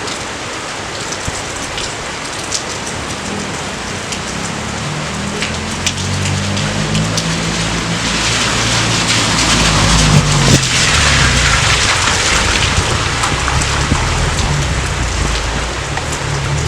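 Steady rain falling, with individual drops ticking close by. From about six seconds in, a low rumble of thunder builds and grows louder, with a sharp crack a little past the middle, and then keeps rolling.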